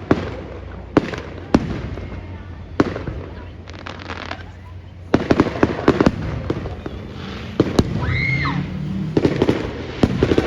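Fireworks display: aerial shells bursting in sharp bangs about a second apart, then runs of dense crackling about halfway through and again near the end.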